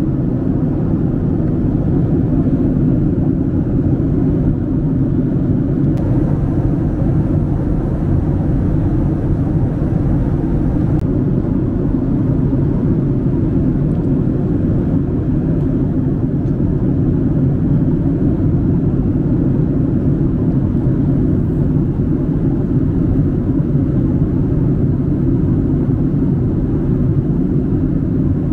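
Steady cabin rumble of a Boeing 767-300 in flight: an even, loud roar of engine and airflow noise, heaviest in the low end, unchanging throughout.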